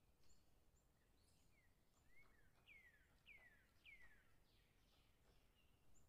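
Faint bird calls over a low background hiss: a series of quick downward-slurred chirps, the three clearest coming in a row in the middle, with a few thinner high notes around them.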